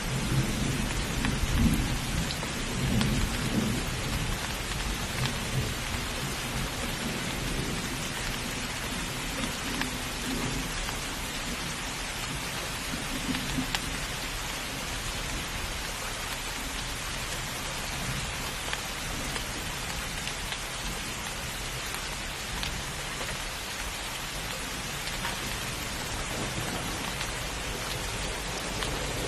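Heavy rain falling steadily, with low rolling thunder in the first few seconds and again briefly near the middle.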